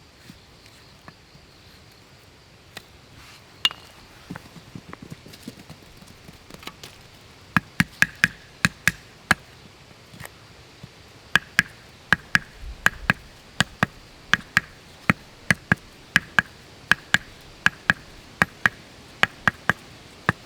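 A series of sharp knocks, a few faint ones at first, then from about halfway in a steady run of hard strikes, two to three a second, each with a short ring.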